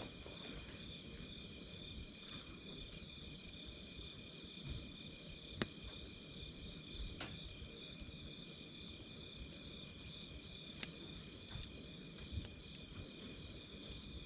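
Wood campfire crackling with scattered sharp pops, over a steady high-pitched chirring of crickets.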